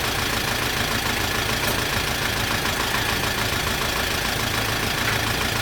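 Truck engine idling steadily, an even low hum with no change in speed.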